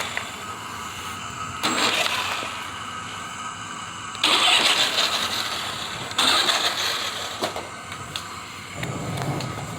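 Toy remote-control Jeep's built-in engine sound effect playing through its small speaker: three engine-rev sounds, each starting suddenly and fading away.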